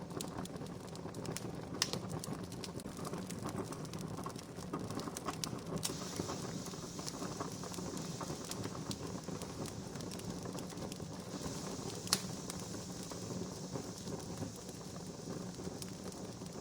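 Wood fire crackling steadily with scattered small snaps, and two sharper pops, one about two seconds in and one near twelve seconds.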